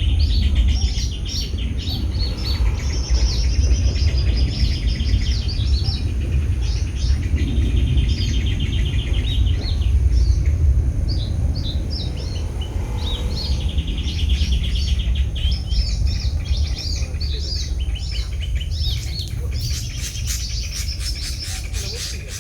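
Small birds chirping, with several fast trills that each last a second or two, and a quick run of sharp chips near the end, over a steady low rumble.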